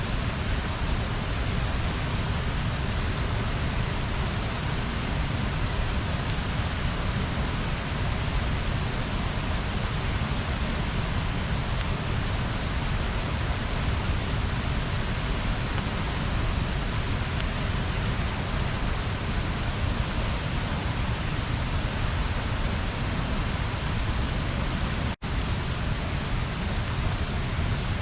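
Bonfire burning with a steady hiss, with a few faint crackles near the end. The sound cuts out for an instant about 25 seconds in.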